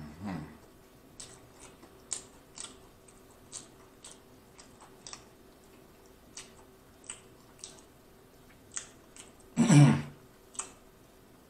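Close-miked chewing of deep dish pizza: wet mouth clicks and smacks, a couple a second. There is a short hum at the start and a louder hummed vocal sound about ten seconds in.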